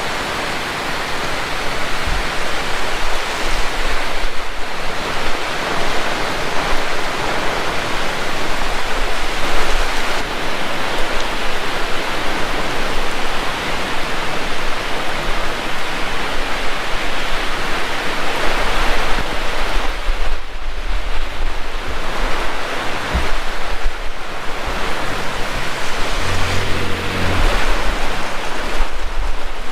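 Heavy rain pouring steadily, with wind; the downpour swells and eases a little at times.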